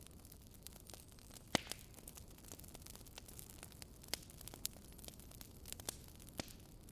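Logs burning in a fireplace, crackling: scattered sharp pops over a low hiss, the loudest about a second and a half in.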